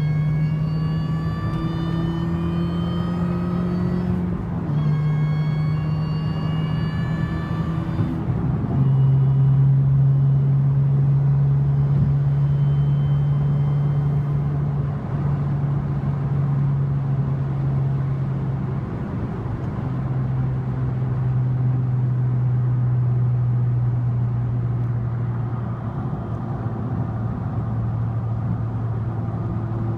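Mini Cooper S R53 with an aftermarket eBay exhaust, pulling up through the revs with a high whine climbing alongside, dropping back twice as it changes up in the first several seconds. It then settles into a steady cruising drone that sinks slowly.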